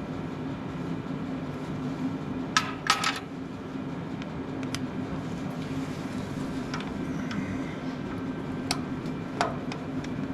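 A few sharp metallic clinks of hand tools, a socket wrench and its extension being handled and refitted, with a cluster about three seconds in and single clinks later. A steady low hum runs underneath.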